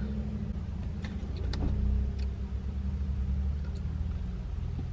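Car engine idling, heard from inside the cabin as a steady low hum, with a few faint clicks about a second or two in.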